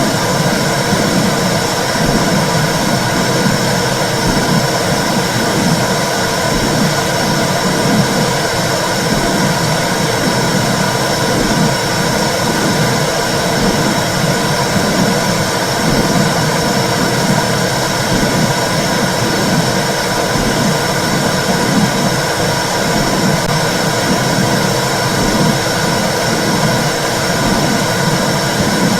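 Uterine (womb) sound: a steady, loud whooshing noise with a regular low pulse running through it.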